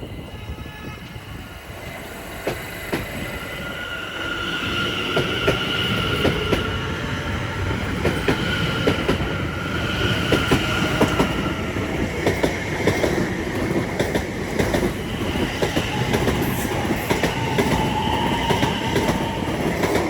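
Greater Anglia Class 720 electric multiple unit pulling out and passing close by. Its wheels click over rail joints, and high steady whining tones come and go. It grows louder in the first four seconds, then stays loud.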